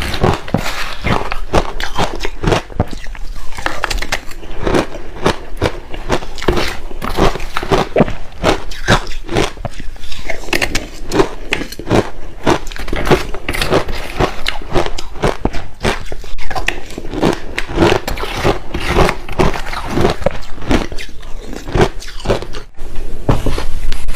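Close-miked chewing of crushed ice mixed with passion fruit: fast, irregular crunching and crackling bites of ice. There is a brief break near the end, after which it resumes louder.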